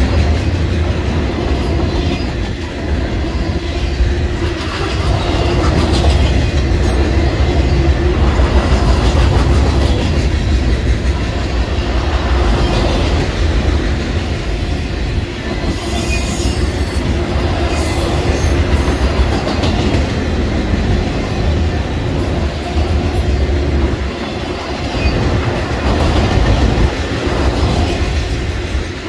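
Norfolk Southern freight cars rolling past: a loud, steady rumble of steel wheels on rail with repeated clacking over the rail joints. Thin, high wheel squeals come and go around the middle.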